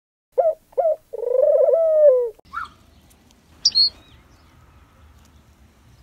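Bird calls: two short low notes, then a long wavering note that drops in pitch at its end. These are followed by a brief higher call and, about three and a half seconds in, a short high chirp.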